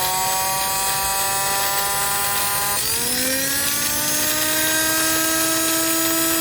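Electric starter motor of a 2002 Toyota Solara whining as it spins, without cranking the engine into life. About three seconds in, its pitch drops suddenly, then slowly climbs back.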